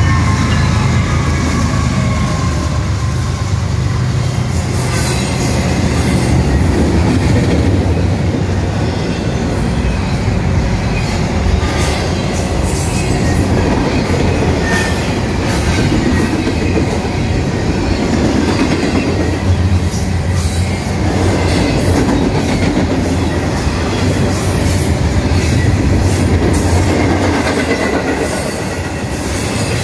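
GE ES44AC diesel locomotives passing close with their engines running, then a double-stack intermodal container train rolling by. The wheels keep up a steady rumble, with irregular clicks over the rail joints and some wheel squeal.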